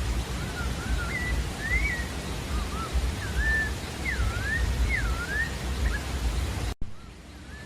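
Sabiá-da-várzea thrush singing: a run of short, clear whistled phrases, each sliding up and down, over a steady low rushing noise. Near the end the sound cuts off abruptly for an instant, and the background noise is lower afterwards.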